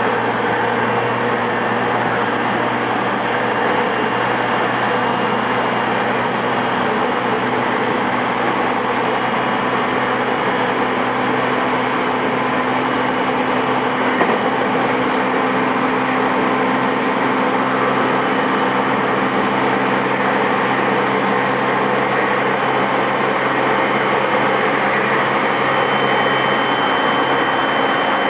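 JR East E217 series electric train running, heard from inside a car: a steady running rumble with a low hum. A faint high tone comes in near the end.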